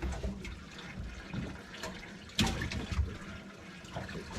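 Water splashing and gurgling in uneven spurts, with a louder splash about two and a half seconds in.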